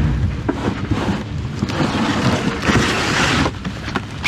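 Wind buffeting the microphone with a steady low rumble, joined about two seconds in by a rustling, hissing noise that lasts about two seconds.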